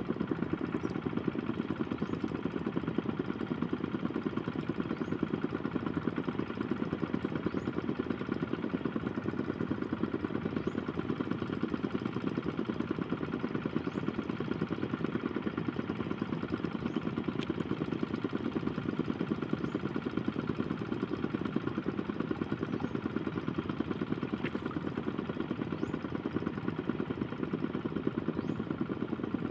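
Motorcycle engine running steadily at an even speed, with a fast, even pulse.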